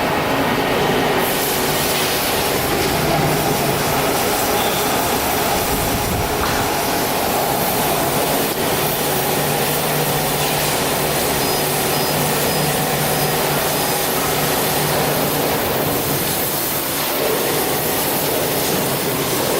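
CNC panel saw running, a loud steady machine noise with a low hum under it, growing hissier in the highs about a second in.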